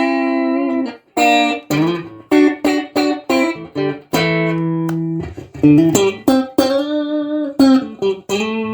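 Strat-style electric guitar playing a melodic phrase: quick picked notes mixed with longer held notes, some with vibrato, and a note bent upward near the end.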